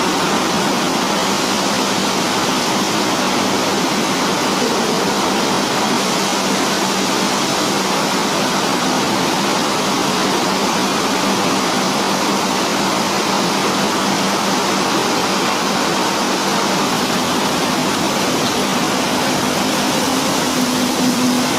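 Heavy rain falling hard: a loud, steady hiss of downpour.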